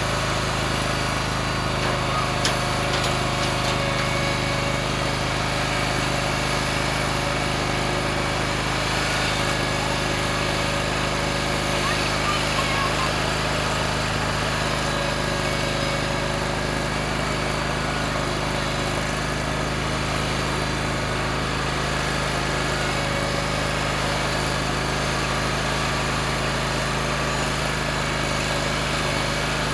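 Stump grinder's small engine running steadily at a constant speed.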